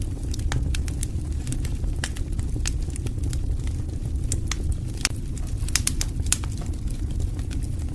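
Wood fire burning in a fireplace: a steady low rumble of flames, with irregular sharp crackles and pops from the burning logs, coming more thickly a little past the middle.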